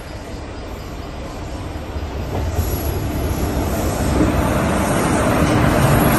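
Intercity express train pulling into the platform, the rumble of its wheels and coaches growing steadily louder as it comes in.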